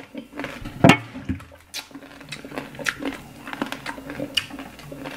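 Crunching and chewing of crispy pig's-head skin: a run of sharp crackles and crunches, the loudest about a second in.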